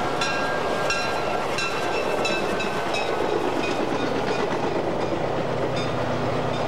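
Passenger train running along the track: a steady rumble with a regular clickety-clack of the wheels over the rail joints, about three clicks every two seconds, fading after about four seconds as a low hum comes in.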